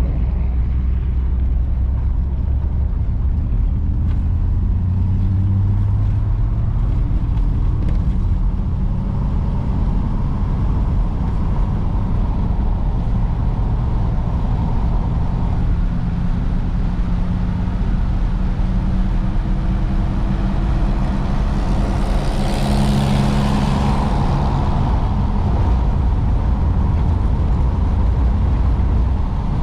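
1953 Oldsmobile Super 88's Rocket V8 driving at road speed: a steady engine drone with road noise, its pitch shifting slowly. A brief rushing swell comes about twenty-two seconds in.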